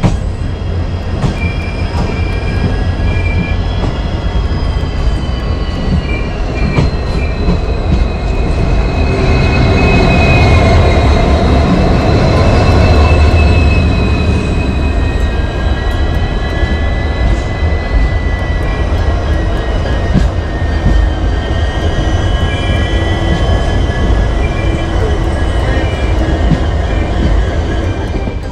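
Moving passenger train's ICF coach: a steady rumble of wheels on rail, with sharp clicks and high, slowly gliding wheel squeal. It swells louder for a few seconds about ten seconds in.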